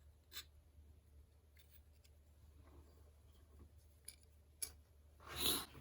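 A few faint clicks from small tools and parts being handled at a workbench, then a short scraping swish near the end.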